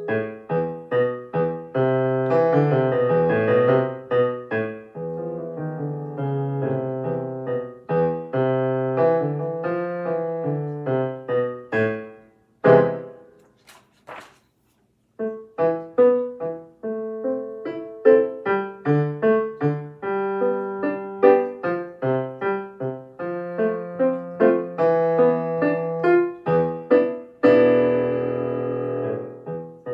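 Solo piano playing a short, minor-key elementary piece with lively repeated notes and chords. About halfway through, one loud accented strike is followed by a brief pause before the playing resumes.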